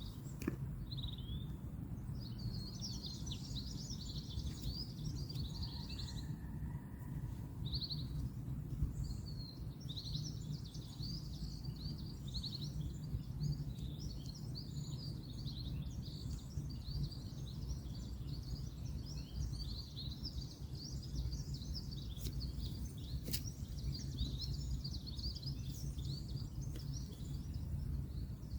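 Many small birds chirping and twittering continuously over a steady low rumble of distant road traffic, with a couple of sharp clicks near the end.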